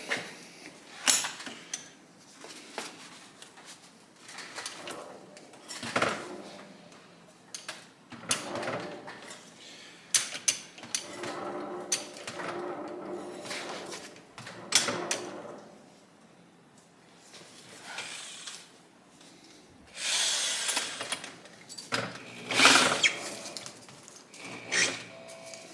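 Irregular metal clicks, knocks and rattling from hands working the kickstart shaft and parts of a partly stripped Honda SL125 engine, with a louder cluster of clatter near the end.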